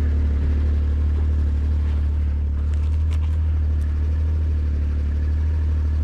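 Snowmobile engine idling steadily, a low even drone, with a few faint clicks about halfway through.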